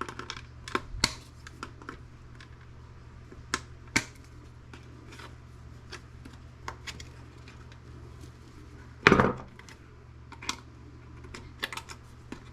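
Light, scattered clicks and taps of metal and plastic computer parts being handled and pried during motherboard disassembly, with one louder clatter about nine seconds in.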